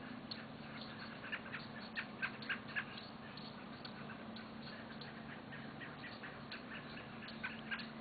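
Birds chirping, American robins among them: a scatter of short chirps, with a quick run of louder ones about one and a half to three seconds in and two more near the end. A faint steady low hum runs underneath.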